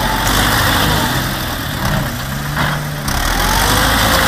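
A vehicle engine running steadily under a loud rushing noise, with a brief dip about three seconds in.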